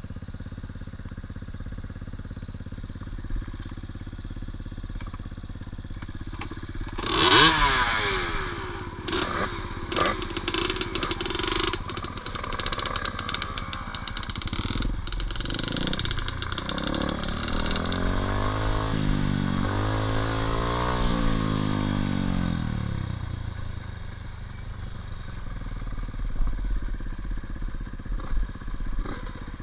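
Dirt bike engine running low and steady, then revving sharply about seven seconds in. Its pitch rises and falls through the middle before it settles back to a low, steady run.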